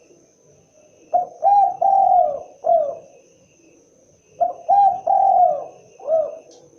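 Spotted dove (tekukur) cooing: two phrases of about four coos each, a few seconds apart, the coos falling in pitch.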